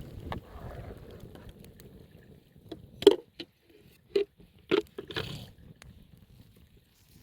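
A few sharp knocks or clatters, four of them between about three and five and a half seconds in, the first the loudest.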